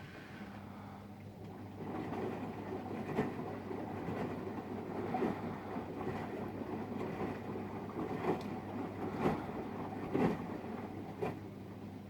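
Samsung WW900 front-loading washing machine on its Super Speed rinse: a steady motor hum under water swishing in the turning drum, with a soft thud about once a second. The swishing grows louder about two seconds in.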